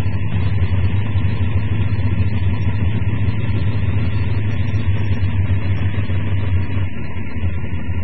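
Drag-race car's engine idling steadily, heard from the cockpit.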